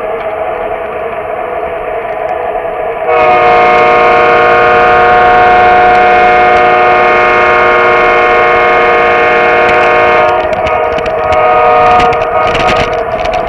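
Lionel O gauge model locomotive running with a steady hum, then its electronic horn sounds one long blast starting about three seconds in and lasting about seven seconds, followed by a shorter blast with some clatter near the end.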